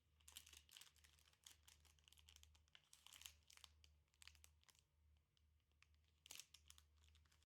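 Faint, irregular crinkling and rustling of something being handled by hand, with scattered small clicks.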